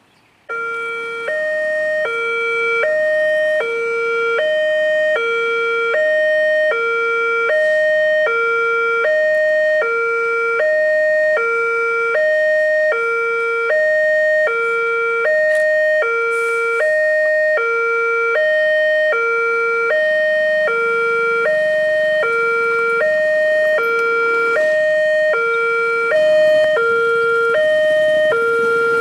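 Level-crossing warning alarm sounding as the barrier closes for an approaching train: an electronic two-tone signal that switches back and forth between a lower and a higher tone, each held about two-thirds of a second. It starts suddenly about half a second in.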